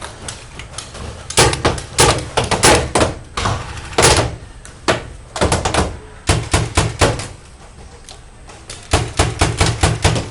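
Paintball markers firing in quick clusters of sharp pops, several shots at a time, with pauses between the volleys.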